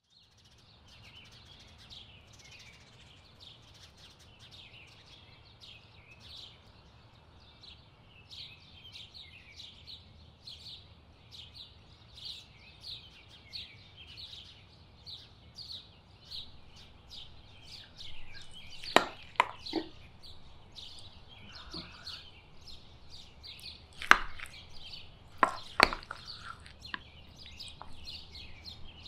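Birds chirping on and off throughout in many short, high calls. A few sharp knocks come about two-thirds of the way in and again a few seconds later, and they are the loudest sounds.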